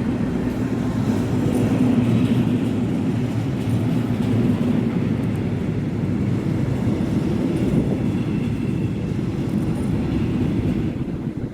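A train running past: a steady low rumble of wheels on the rails, easing off near the end.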